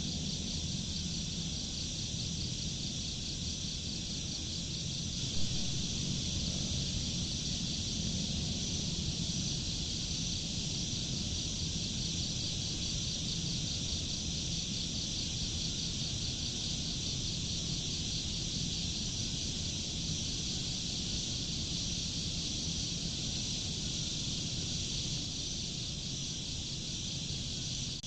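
A steady chorus of crickets chirring in fast pulses over a low steady rumble. A single brief click stands out about five seconds in.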